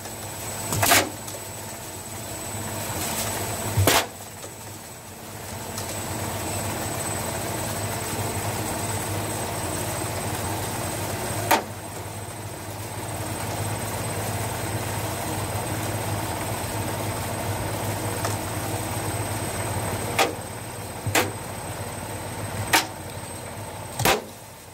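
Washing machine running, a steady motor hum that grows louder about five seconds in, with a thin high whine above it. Sharp knocks and bangs sound several times, most of them in the last few seconds.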